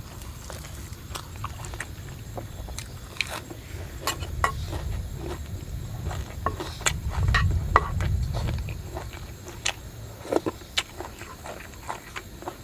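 Someone eating close to the microphone: scattered sharp crunches and chewing, over a steady low rumble that swells a little past the middle.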